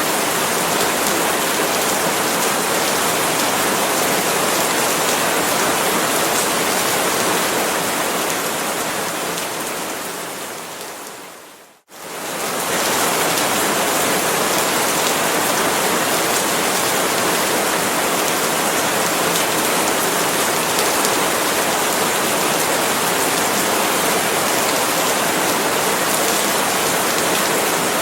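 Steady, dense hiss of heavy tropical rain falling on palm leaves. About ten seconds in it fades gradually to silence, then comes back to full strength within about a second.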